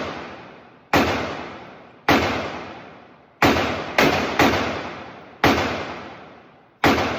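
Seven gunshots fired at an uneven pace, each a sharp crack with a long echoing tail. Two of them come close together about four seconds in.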